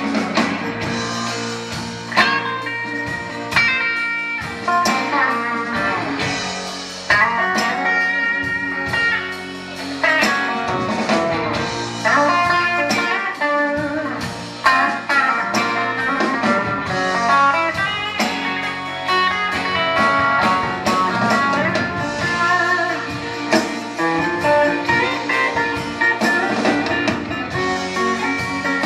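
Live soul-blues band playing an instrumental break of a slow ballad, with a lead guitar playing melodic lines over the band.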